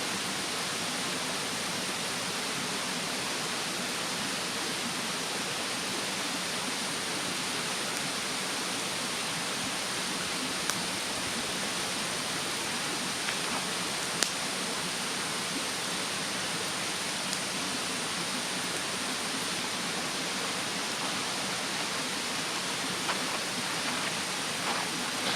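Steady rushing of a mountain stream, with a few sharp, scattered crackles from a wood fire burning in a fire stand.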